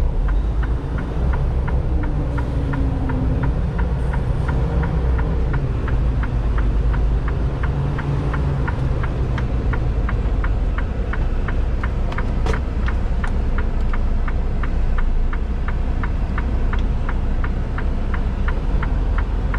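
Diesel engine of a Freightliner Cascadia semi-truck heard from inside the cab, rumbling steadily at low speed. Over it the turn signal clicks evenly, about three clicks a second.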